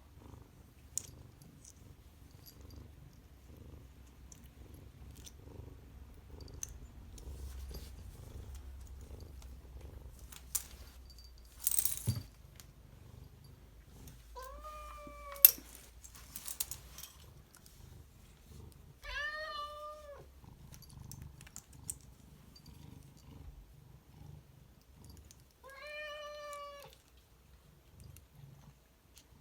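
A domestic cat purring with a low, pulsing rumble, then meowing three times, each call about a second long. Scattered clicks and knocks are heard throughout, the loudest a sharp knock about halfway through.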